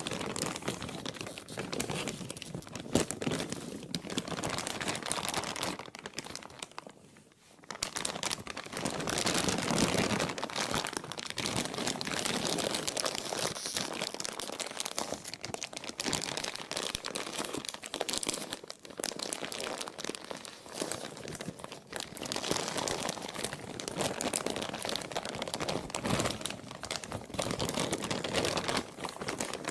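Plastic crinkling and crumpling continuously, a dense crackle of many small snaps, with a short lull about seven seconds in.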